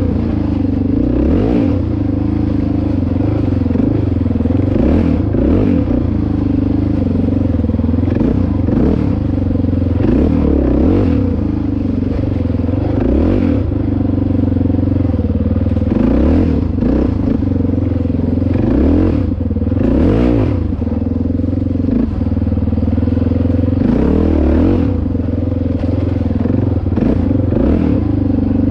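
Dirt bike engine running under way on a trail, revs rising and falling over and over, with rattling and clatter as the bike bounces along.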